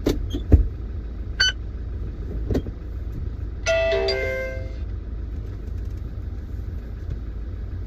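An idling engine rumbles inside the cab of a manual-transmission test truck, with several clunks in the first few seconds as the gear lever is shifted into second and back to neutral. About four seconds in, a short electronic chime sounds.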